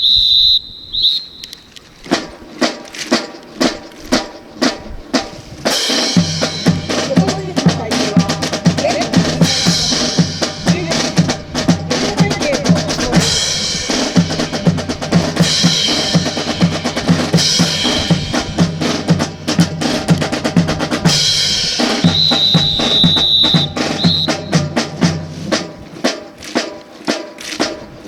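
Marching drum cadence of snare and bass drum with sharp regular beats, joined by a low sustained backing from about six seconds in until near the end. A high steady whistle sounds briefly at the start and again, longer, a little after twenty seconds in.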